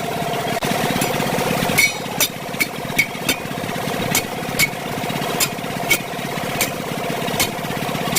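A steady mechanical hum, like an engine idling, with sharp knocks about once or twice a second, unevenly spaced, starting about two seconds in.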